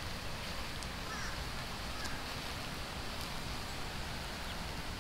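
A few faint, short bird chirps over a steady outdoor background hiss and low rumble.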